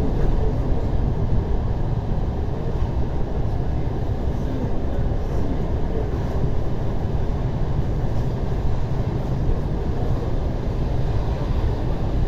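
Steady low rumble of an ER9T electric multiple unit, heard from inside a passenger carriage.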